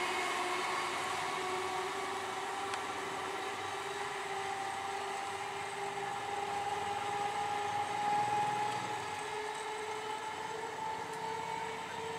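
Electric multiple-unit (EMU) local train approaching along the track: a steady running hum with an electric whine that rises slowly in pitch.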